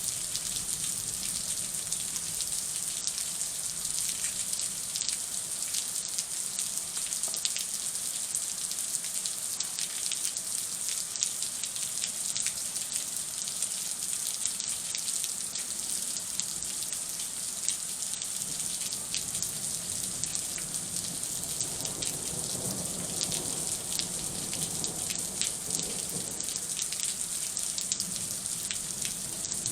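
Thunderstorm rain falling steadily: a dense hiss with many separate drops crackling through it. A low rumble swells and fades about three-quarters of the way through.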